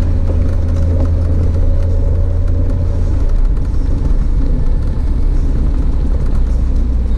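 Audi TT RS's turbocharged five-cylinder engine droning steadily inside the cabin while driving, its pitch falling about halfway through as the revs drop.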